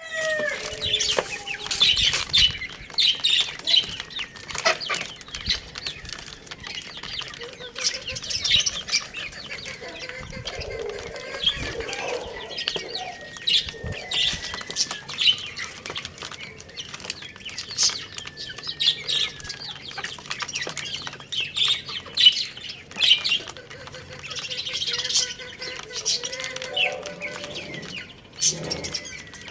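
Chicks chirping over one another in quick, high, overlapping peeps, in dense bursts throughout.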